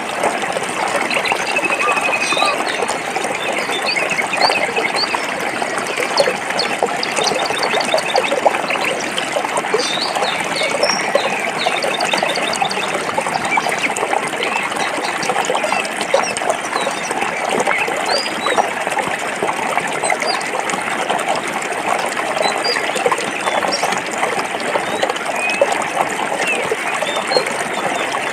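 Stream water flowing and splashing over rocks, a steady babble, with small birds chirping faintly above it.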